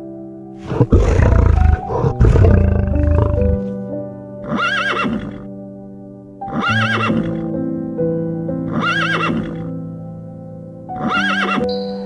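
Horse whinnying four times, the same short call about every two seconds, over soft piano music. Before the first whinny, about a second in, comes a loud, low rumbling sound lasting a couple of seconds.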